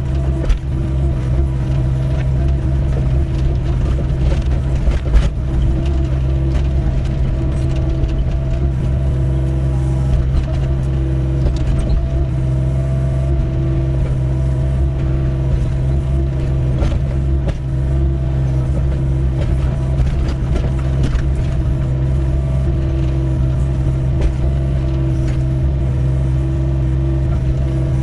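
Doosan 55W wheeled excavator's diesel engine running steadily while digging, with occasional sharp knocks.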